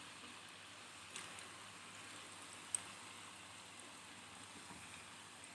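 Banana fritters deep-frying in hot oil: a soft, steady sizzle with a few crackles and one sharp pop near the middle.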